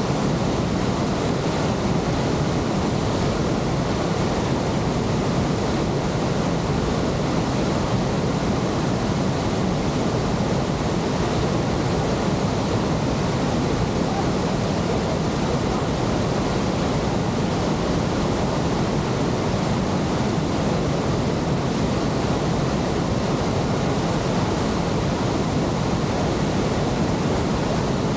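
Victoria Falls: a steady, dense rush of falling water, with no breaks or changes.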